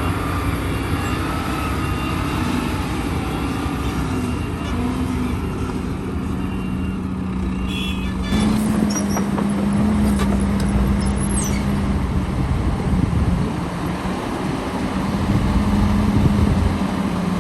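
Heavy diesel machinery engine running steadily, growing louder about eight seconds in as it comes under more load or closer.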